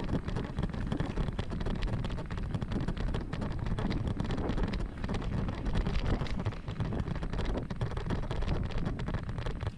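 Wind buffeting the microphone of a moving mountain bike: a dense, steady rumble with small clicks and rattles through it.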